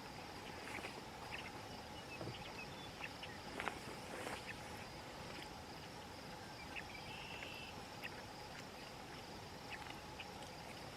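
Evening prairie ambience: steady insect trilling, like crickets, with scattered short chirps and a couple of light clicks about a third of the way in.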